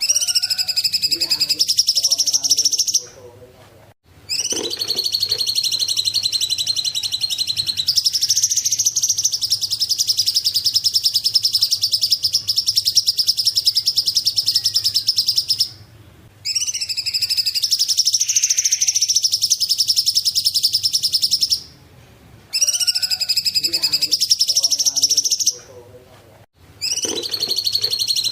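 A cungkok bird singing long, high-pitched phrases made of very fast trills, each lasting several seconds, broken by short pauses.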